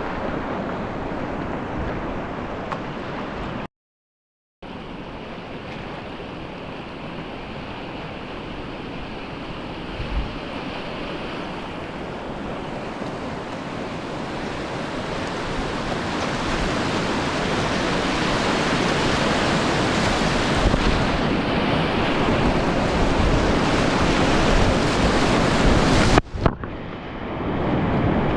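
Rushing river water churning around a small paddle boat on a fast valley stream, with wind buffeting the microphone. The sound cuts out for about a second near the start, then grows steadily louder over the next twenty seconds.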